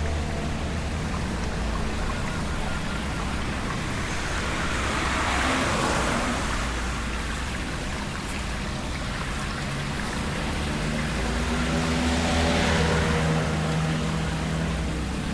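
A motor vehicle's engine running steadily on a flooded road, with rushing, splashing water noise that swells twice, as a vehicle moves through the floodwater.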